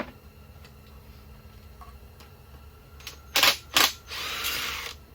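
A handheld power tool backing out a bolt: two short blips about half a second apart, then about a second of steady running before it stops. A sharp click comes at the very start.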